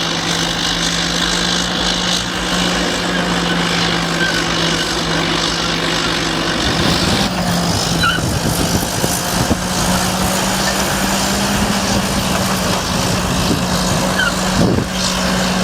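Heavy machine's engine running steadily, its pitch and note shifting slightly about seven seconds in.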